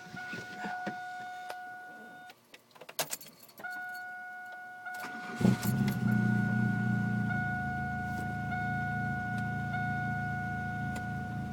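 Keys click in the ignition of a 1999 Chevy Cavalier. About five seconds in, its 2.2-litre four-cylinder cranks, catches and settles into a steady idle through an all-new aftermarket exhaust. A steady high-pitched electronic tone sounds through most of it, breaking off briefly just before the key clicks.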